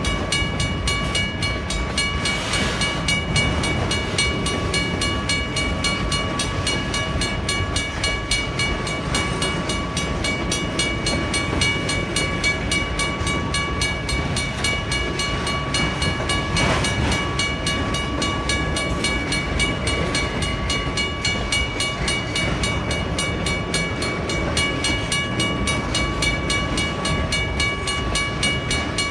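WRRS mechanical crossing bell ringing with rapid, even strokes over the low rumble of a train moving through the crossing.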